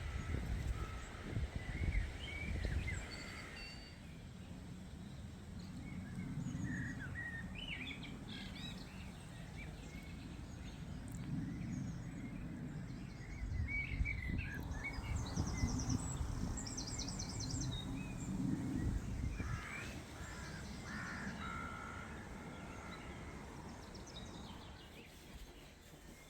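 Garden birdsong: several small birds chirping and trilling in short scattered phrases, busiest in the middle of the stretch, over a steady low rumble.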